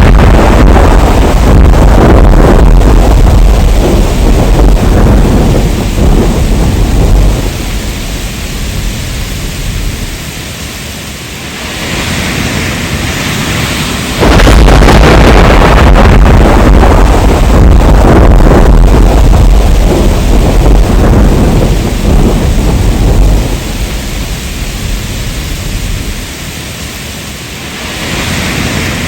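Heavy rain with rolling thunder. A long, deep rumble runs through the downpour, then fades into steady rain hiss. A second thunder rumble starts abruptly about halfway through and fades the same way.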